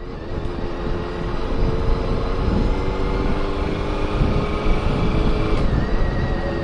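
Honda CBR400RR's inline-four engine running under way, with a low rumble of wind on the microphone; the engine note steps down about five and a half seconds in.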